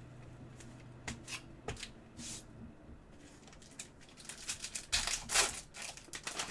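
Trading cards and their packaging being handled by hand: a few scattered taps and clicks, then a quick run of rustling and sliding about four seconds in.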